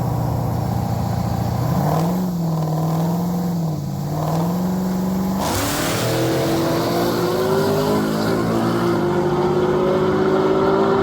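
Drag-racing cars at the start line, engines idling and revving, then launching about five and a half seconds in and accelerating hard down the strip. The engine pitch climbs, drops back once at a gear change, and climbs again.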